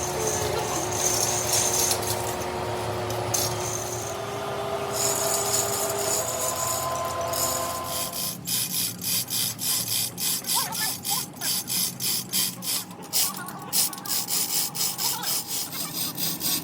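Metalworking tools on crusher parts: a steady machine sound with a few held tones for the first half, then even, repeated rubbing strokes about two a second, like filing or sawing metal.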